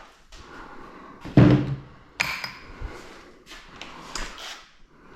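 Metal engine parts being handled and set down: a few clatters, a heavy thump about a second and a half in, and a sharp clank with a brief metallic ring just after two seconds.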